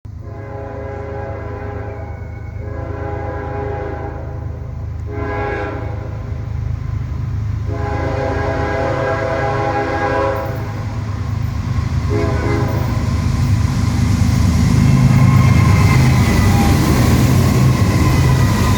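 Norfolk Southern diesel freight locomotives approaching, the lead engine's horn sounding the grade-crossing pattern of long, long, short, long blasts, then a brief toot about twelve seconds in. Under the horn the diesel rumble grows steadily louder, and wheel noise on the rails with a faint squeal builds near the end.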